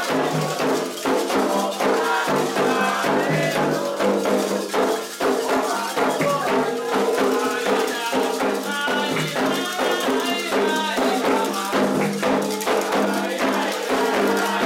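Candomblé drumming for Xangô: atabaque hand drums led by the rum, with shaken rattles and voices singing over a dense, steady rhythm.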